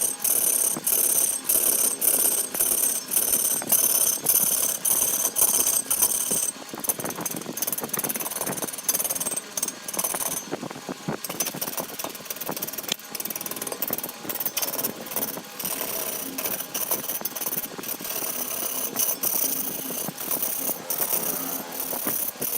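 A machine knocking rhythmically, about two to three strokes a second, turning to an irregular clatter about six seconds in.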